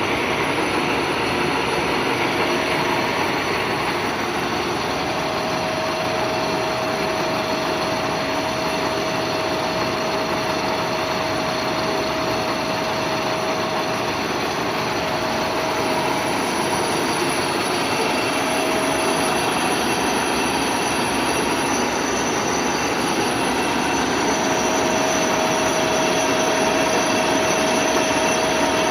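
WMW Heckert GFLV 250 x 2000 thread milling machine running: a steady mechanical running noise with a constant whine.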